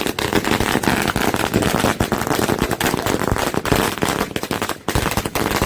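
A string of firecrackers going off in a fast, continuous chain of small bangs, with a short break near the end before the bangs carry on.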